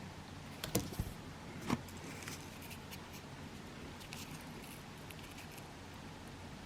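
A few sharp clicks and knocks about a second in, then faint ticks and rustling: cardboard firework tubes and packaging being handled.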